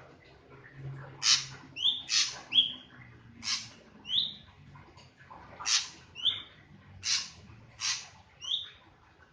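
Drongo calling over and over, roughly once a second: each call is a harsh note followed by a short rising whistle.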